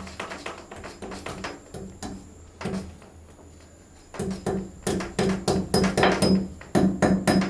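A series of sharp knocks, scattered at first, then coming faster and louder, about three or four a second, from about four seconds in.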